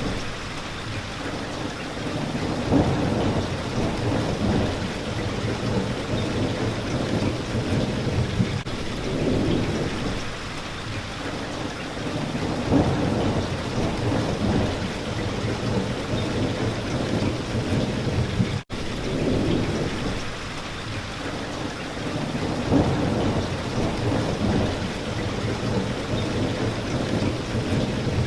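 Steady rain with low rolling thunder rumbles swelling about every ten seconds. The sound drops out for a split second about two-thirds of the way through.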